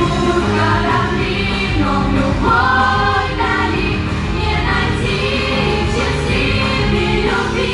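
A group of young voices singing together in chorus over an instrumental backing track.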